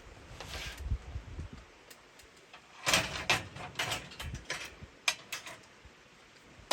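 Gear being handled by hand: soft low bumps and rustling, then a quick run of sharp clicks and knocks about three seconds in.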